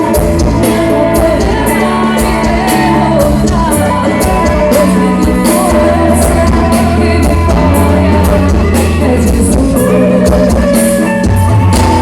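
Loud live band music, with drums keeping a steady beat, a heavy bass line and a voice singing over it: a band's soundcheck.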